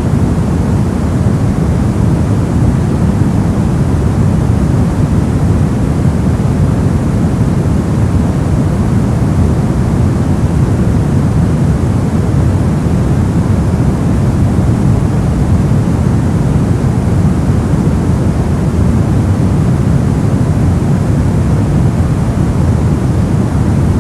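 Steady electronic white noise, a deep, even hiss with most of its weight in the low end, unchanging throughout.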